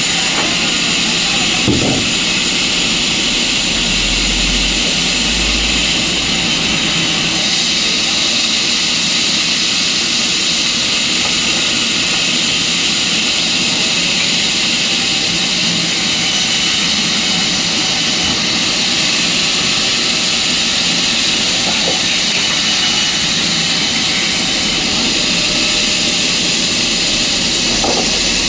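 Sawmill machinery running steadily, a loud, even mechanical noise with a low rumble swelling briefly about four seconds in.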